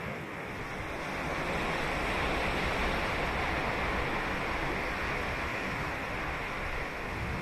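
Ocean waves breaking and washing onto a beach, a steady rush of surf that swells about a second in and eases off near the end.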